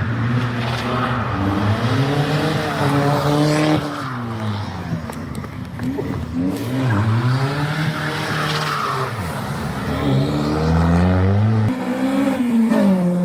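Modified car engine revving as it pulls away, its pitch climbing and dropping several times, with a sharp fall about three-quarters of the way through.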